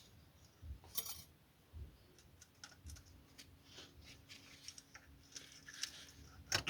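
Scattered light clicks and taps of hand tools being handled, the sharpest about a second in and another near the end, over a faint steady hum in the second half.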